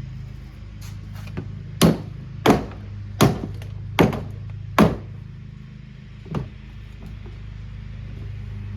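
A Kuppet portable washing machine being struck to destroy it: five heavy blows about three-quarters of a second apart, with a few lighter knocks before them and one after. A steady low hum runs underneath.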